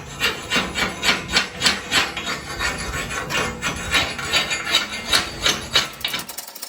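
Steel chisel scraping and chipping slag from the torch-cut edge of quarter-inch steel plate in short, repeated strokes, about two or three a second, stopping shortly before the end.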